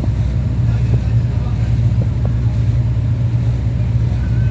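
Passenger boat's engine running steadily with a low hum, heard on board.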